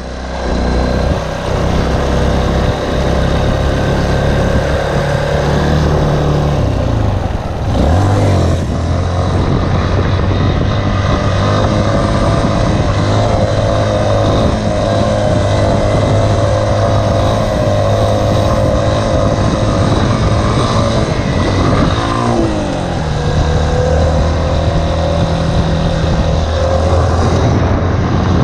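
Honda CRF dirt bike's single-cylinder four-stroke engine running under throttle at fairly steady revs, with the revs dropping and climbing again twice, about a quarter of the way in and again about three quarters of the way in.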